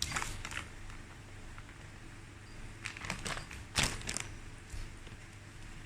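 Quiet handling sounds of flour being added for homemade playdough: faint rustling with a few short clicks and knocks, the sharpest about four seconds in.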